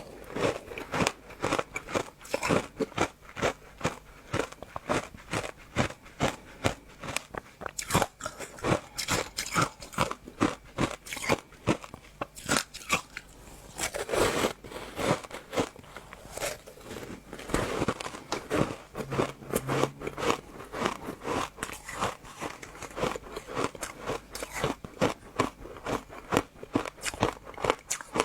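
Close-up crunching and chewing: a person biting and chewing something crunchy, with many irregular sharp crunches, several a second, all through.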